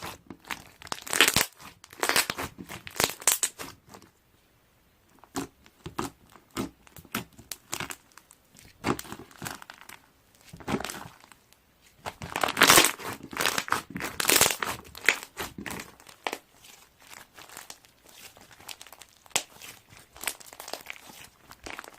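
Crinkly material being crumpled and handled close to the microphone, in irregular crackling bursts with a couple of short pauses.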